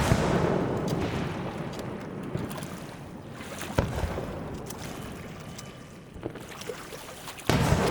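Fireworks shells bursting: a sudden loud boom at the start that rumbles and fades over a few seconds, a sharper bang nearly four seconds in, and another loud boom near the end, with faint crackles in between.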